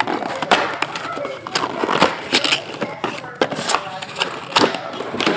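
Trading cards being handled and flipped through: a run of quick clicks, scrapes and crackles.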